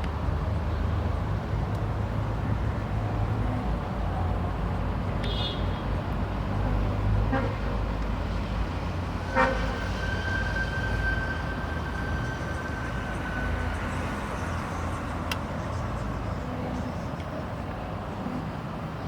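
Steady low rumble of a motor vehicle, with a few sharp clicks and a steady high tone that sounds for about three seconds midway.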